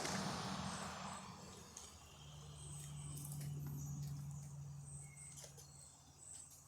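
Faint outdoor ambience: short high chirps recurring over a low steady hum, with a soft rushing noise that fades out in the first second or two.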